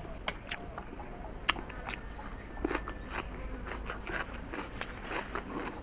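A person chewing a mouthful of Maggi instant noodles: scattered mouth clicks and smacks, with one sharp click about a second and a half in.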